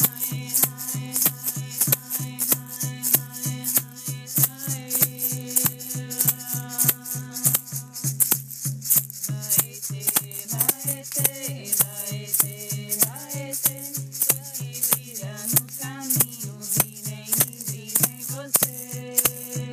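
A maracá rattle shaken in a steady beat, about two to three shakes a second, accompanying a sung Yawanawá chant. The chant holds long notes, and its melody moves up and down more in the second half.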